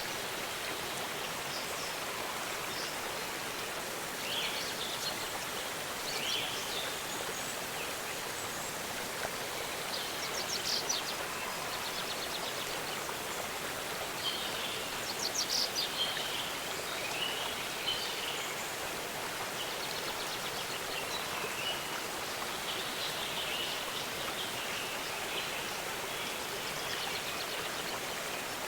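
Waterfall rushing steadily, with birds calling over it now and then; the loudest calls are quick trills about a third of the way in and again just past halfway.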